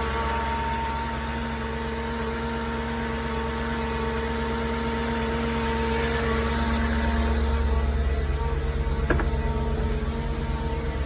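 2004 Audi S4's 4.2-litre V8 idling steadily on a cold start, with the cooling fan running loud as it does on cold start and no chain slap. A single sharp click comes near the end.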